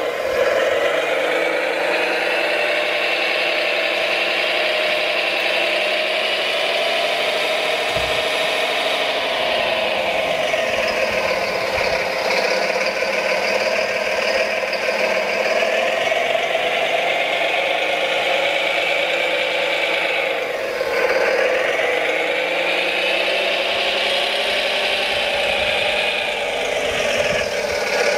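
Electric motors and gearboxes of radio-controlled model construction machinery whirring steadily, with a rattle; the whir drifts slowly up and down a few times.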